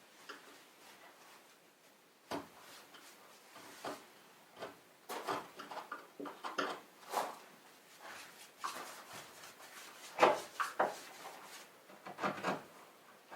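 Irregular light knocks, clicks and rubbing or scraping sounds, the loudest knock about ten seconds in.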